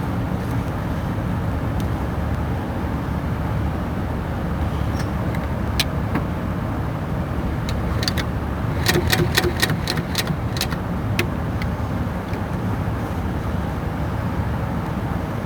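Sewing machine running in reverse to sew leather backwards: a steady motor rumble, with a quick run of about seven stitching clicks around nine seconds in.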